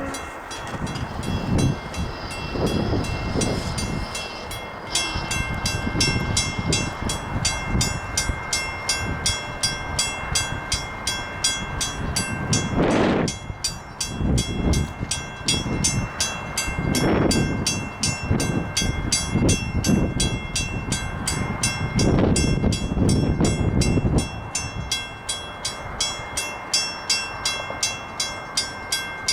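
Passenger train passing at speed, its wheels clicking over rail joints in a steady rhythm of two to three clicks a second, over a rushing rumble and a steady high whine.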